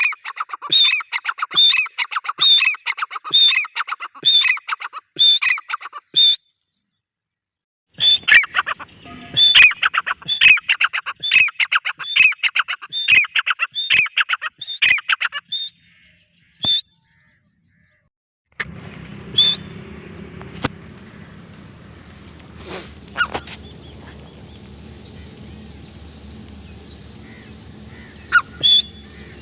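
Francolin (teetar) calling in a fast repeated series, about two calls a second, with a short break a few seconds in. After about 18 seconds a steady low hum takes over and only a few scattered calls come through.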